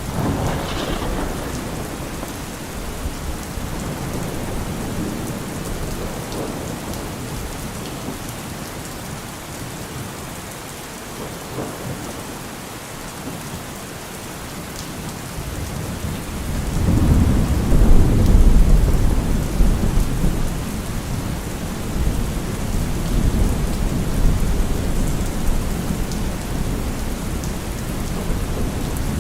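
Steady rain falling, with thunder rumbling: a brief rumble at the start, then a longer, louder roll of thunder building about halfway through and fading slowly.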